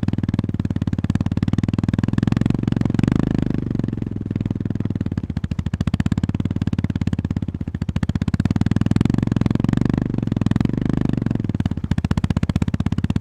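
Honda GB350S air-cooled single-cylinder engine running under way at low speed, its firing pulses close together. The engine note swells as the throttle opens about two seconds in and again about nine seconds in, easing off in between.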